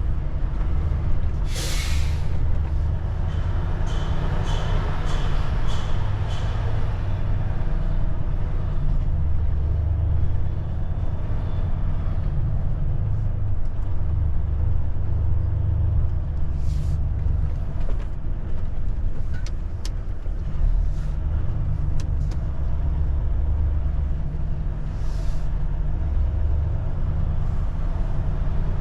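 Volvo truck heard from inside the cab, its diesel engine and road noise making a steady low rumble. Short hisses of compressed air come three times: about two seconds in, about halfway through and near the end.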